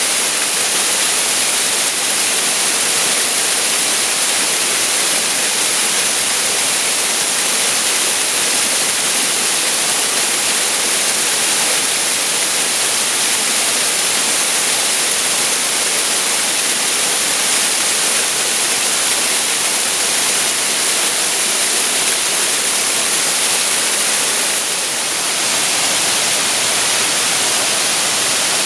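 Waterfall pouring from a cave mouth: a steady, loud rush of falling water with a bright hiss, dipping briefly near the end.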